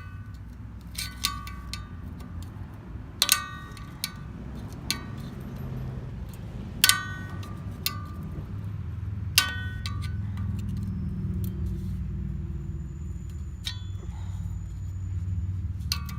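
Steel machete blade knocking against metal in irregular single clinks, each ringing briefly at the same few clear pitches, over a steady low rumble.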